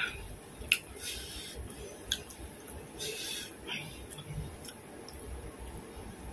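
A person chewing grilled meat, with wet mouth smacks and a few short sharp clicks; the sharpest click comes just under a second in.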